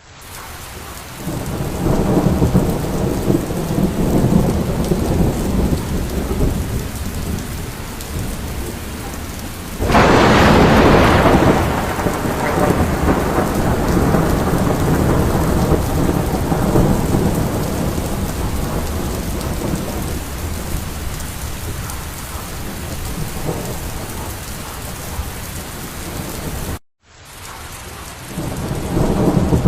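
Rain falling during a thunderstorm, with long rolls of low thunder. About ten seconds in a sharp, close thunderclap breaks and rumbles away over several seconds; the sound cuts out briefly near the end.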